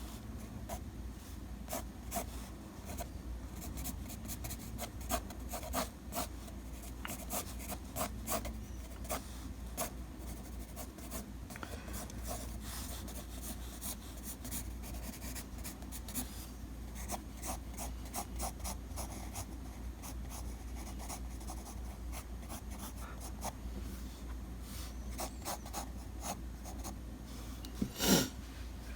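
A drawing tool scratching on paper in many short sketching strokes, with a louder single scrape about a second before the end, over a steady low hum.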